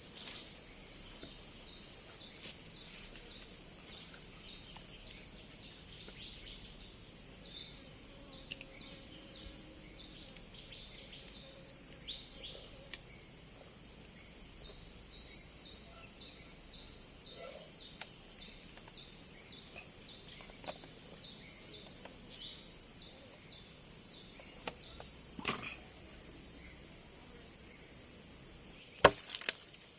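Forest insects: a steady high drone, with a short repeated chirping call about twice a second that runs in two long series. A few sharp knocks near the end.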